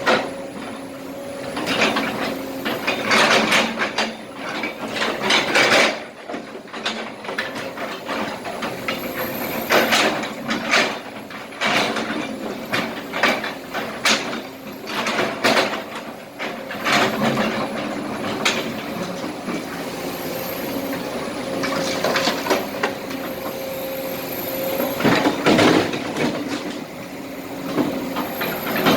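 Kobelco SK200 excavator's diesel engine running steadily under hydraulic load, with repeated clattering and scraping bursts of broken asphalt and small rocks as the bucket digs and dumps them into a truck bed.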